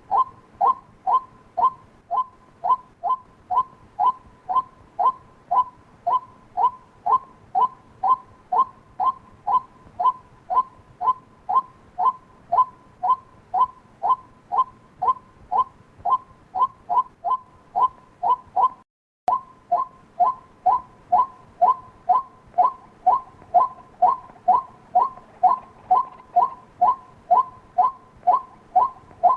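White-breasted waterhen calling a repeated 'kwak' note, about two calls a second in a steady, unbroken series. The calls cut out briefly about 19 seconds in, then carry on.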